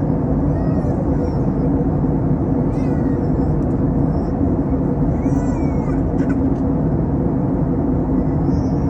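Airbus A321 cabin noise in descent: a steady drone of engines and airflow with a low hum. Four short, high-pitched cries with a rising-and-falling pitch sound over it, the clearest about three and five seconds in.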